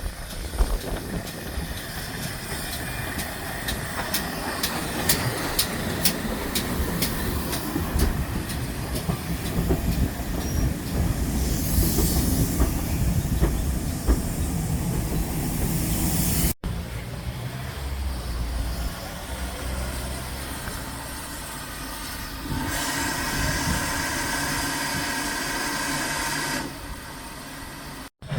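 GWR steam locomotive and its train running past, with a run of sharp clicks from the wheels going over rail joints and steam hissing. The sound breaks off abruptly a little past halfway and again near the end.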